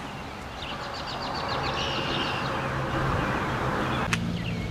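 A small bird singing a quick run of high chirps and a held note, over a steady low motor hum and a rushing noise that swells and fades. A single click comes near the end.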